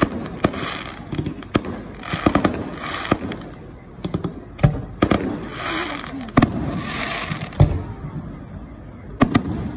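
Aerial fireworks exploding overhead: a string of sharp bangs at uneven intervals, with stretches of crackling between them and one especially deep boom late on.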